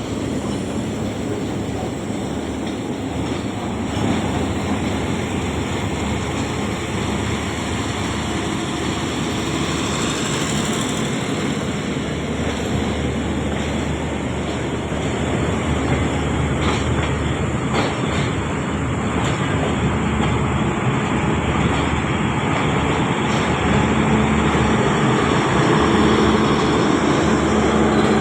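Passenger train coaches rolling into the platform, a steady rumble that grows slowly louder, with a steady engine hum coming in near the end.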